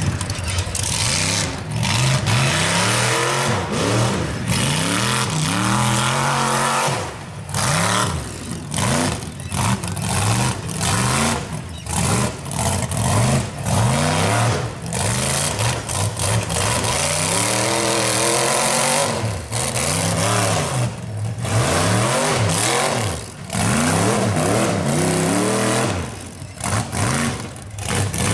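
Off-road rock-racing truck's engine revving hard again and again as it climbs through rocks. Each blip rises and falls in pitch, with a few short lulls between runs of throttle.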